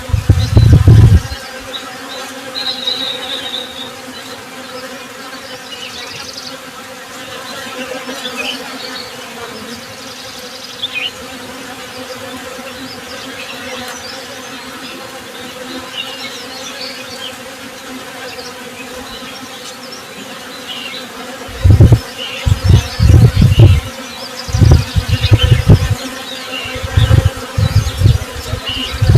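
Honey bees buzzing in a steady, even drone, with short bird chirps now and then. Loud low rumbles break in near the start and again several times in the last third.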